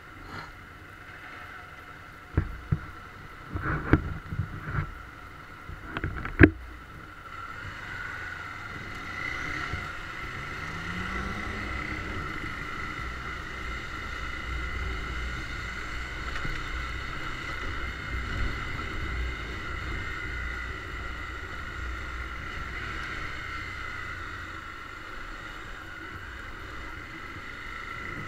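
Honda CBX 250 Twister's single-cylinder engine running under the rider, pulling away with a rising pitch about ten seconds in and then holding a steady cruise. Several sharp knocks come in the first few seconds, before the engine grows louder.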